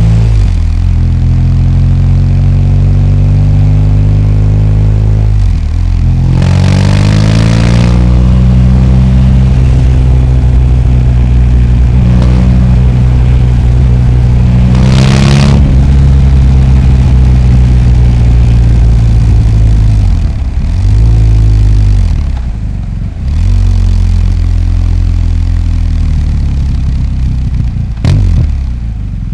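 BMW R1250GS boxer-twin engine running while ridden in traffic, its pitch rising and falling as it accelerates and changes gear, with the throttle closing a few times in the last third. Two short rushes of noise come about seven and fifteen seconds in.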